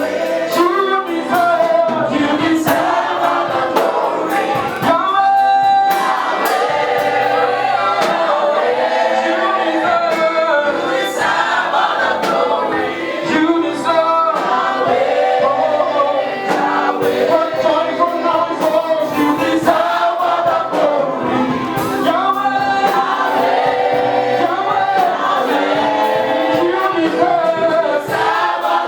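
Gospel worship song: a choir and lead singers sing over a live band with keyboard and drums.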